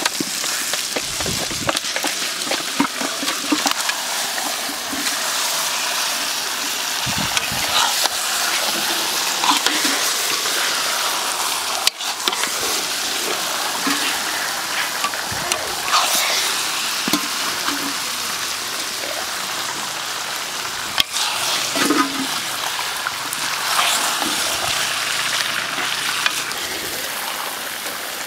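Chicken drumsticks sizzling steadily in hot onion masala in a large kadai as they are tipped in and stirred, the metal ladle scraping and clacking against the pan, with a couple of sharp knocks.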